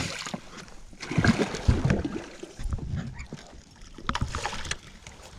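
Irregular knocks and thumps of gear and a freshly landed fish being handled in a small fishing boat, loudest about one to two seconds in, over a low rumble of water and wind.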